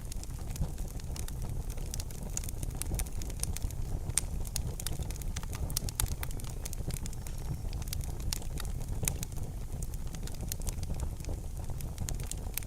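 Wood fire crackling in a fireplace: frequent small, irregular pops and snaps over a steady low rumble of the flames.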